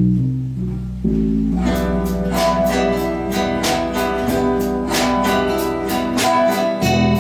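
Ensemble of guitars playing: sustained low bass notes open, then from about a second and a half in, strummed chords come in a quick, steady rhythm under a plucked melody.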